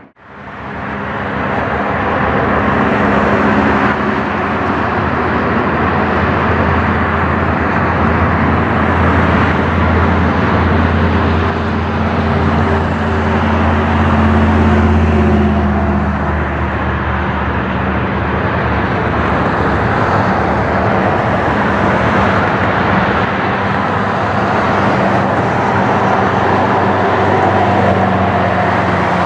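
Jet engines of a Boeing 737-700 airliner (CFM56-7B turbofans) running with a steady loud roar and low hum; the hum is strongest in the first half and eases off after about halfway.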